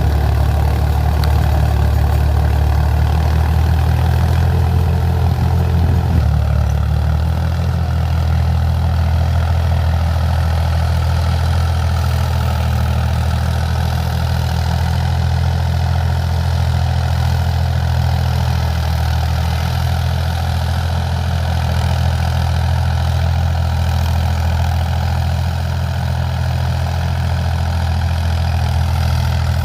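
Tractor engine running steadily, its low note shifting slightly about six seconds in.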